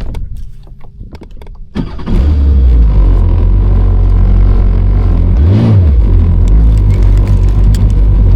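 Jet ski engine starting to run about two seconds in, with a loud steady rumble and a brief rise and fall in pitch about halfway through.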